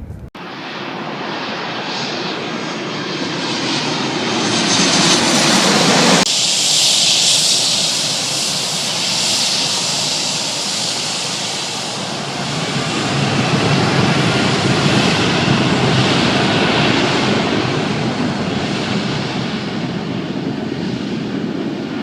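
Aircraft engines of a fixed-wing plane, a loud, dense noise that swells and fades twice, with the low rumble dropping away suddenly about six seconds in.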